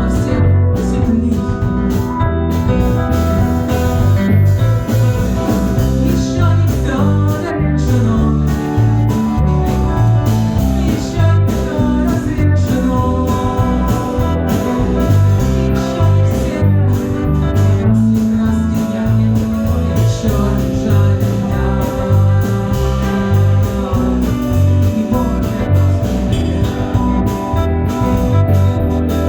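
Instrumental passage of a rock song: guitar over a steady drum beat.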